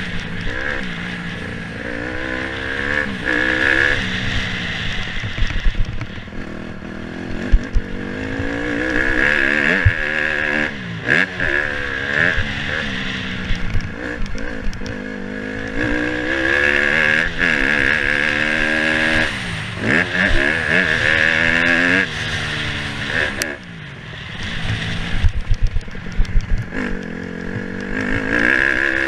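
Motocross dirt bike engine being ridden hard, revving up and falling back again and again as the throttle opens and closes through the gears. There are scattered sharp knocks along the way.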